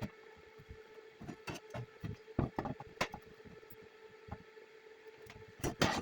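A series of scattered knocks and clatters over a steady hum, with the loudest knocks near the end.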